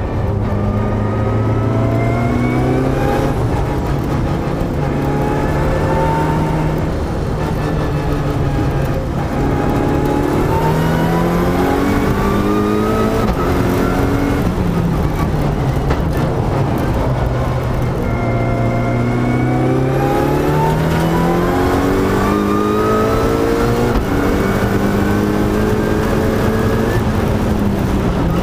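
Mitsubishi Lancer Evolution's turbocharged four-cylinder engine heard from inside the cabin at full racing pace. The engine note climbs through the revs, breaks sharply at each paddle-shifted gear change, and falls back for corners several times over.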